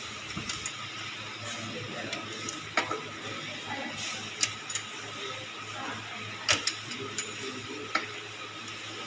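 Metal hand tools clinking and tapping against a motorcycle engine during workshop repair: a few sharp clicks spaced a second or two apart over a low steady hum.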